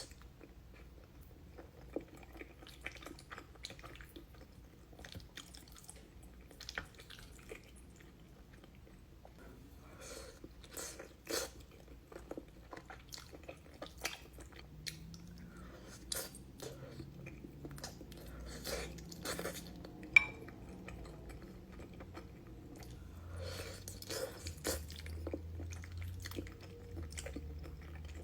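A person chewing and biting cheesy food close to the microphone, with soft crunches and short clicks at irregular intervals. A single sharp click about two-thirds of the way through is the loudest sound.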